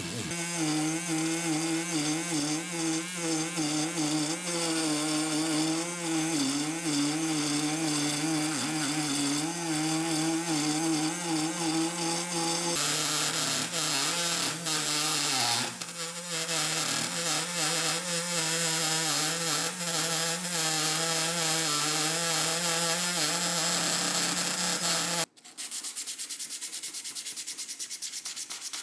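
Electric power sander running against a surface, its motor hum wavering under load over a gritty rubbing noise. About 25 seconds in it cuts abruptly to a quieter tool sound with fast, even ticking.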